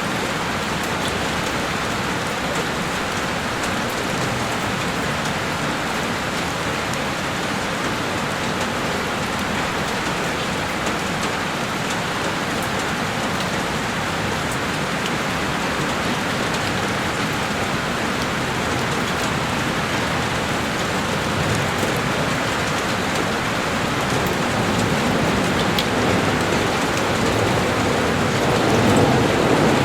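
Heavy rain beating steadily on a window pane, a dense, even hiss. Over the last third a low rumble swells and is loudest near the end.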